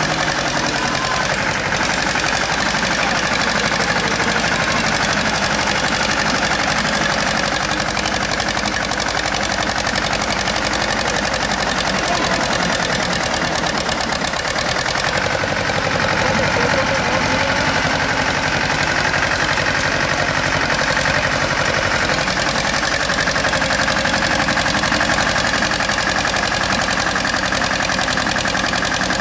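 Tractor engine running steadily, its level even throughout.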